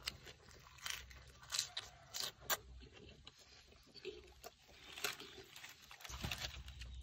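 Close-up chewing of a mouthful of crisp lettuce leaf wrapped around cow stomach contents, with several sharp crunches in the first two and a half seconds and another about five seconds in.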